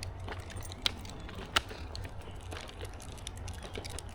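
Footsteps crunching on a woodland trail, a stream of small crackles and clicks, with two sharp louder clicks about one and one and a half seconds in.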